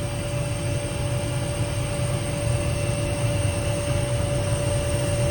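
Aircraft engines running at idle, a steady low rumble with a steady whine over it.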